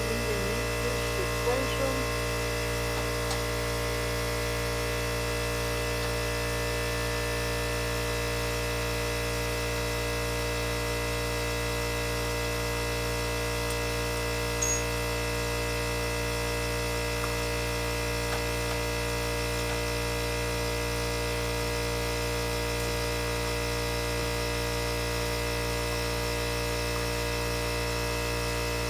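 A steady electrical hum made of many constant tones, with a few faint clicks and taps in the first couple of seconds and one more about halfway through.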